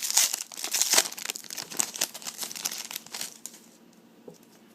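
Trading card pack wrapper being torn open and crinkled by hand, a dense crackling that stops about three and a half seconds in, followed by a single light click.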